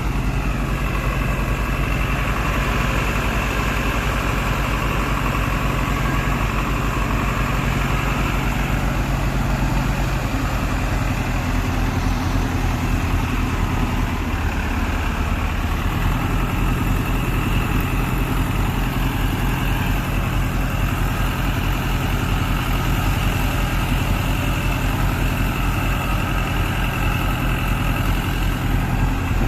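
Tractor engine idling steadily, its note shifting once about ten seconds in.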